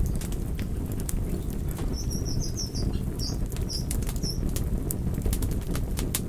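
Campfire burning with a steady low rush of flame and frequent sharp crackles and pops of burning wood. About two seconds in, a short run of high chirps sounds for a couple of seconds.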